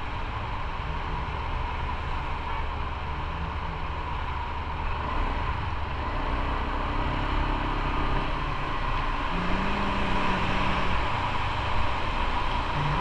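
Motorcycle engine running while riding on the road, with wind and road noise; the engine note shifts in pitch and the sound grows louder over the second half.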